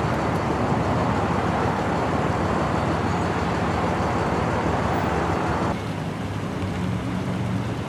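Road traffic noise with a steady low engine hum from a running motor vehicle; the hiss of the traffic drops off abruptly about six seconds in.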